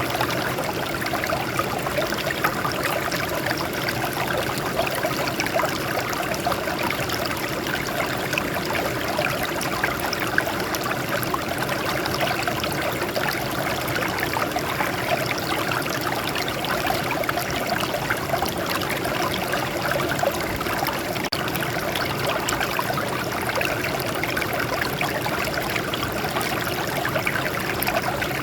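Water trickling and splashing over rocks in a small stream, a steady babbling rush.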